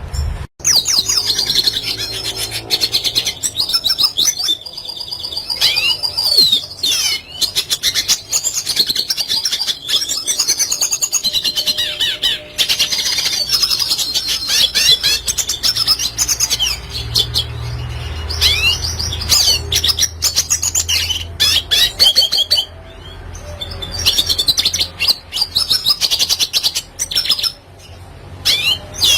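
Red siskin singing a long, fast twittering song of chirps, trills and sweeping notes, with a few short breaks.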